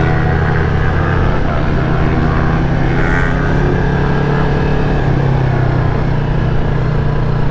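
Motorcycle engine running at fairly steady revs while riding.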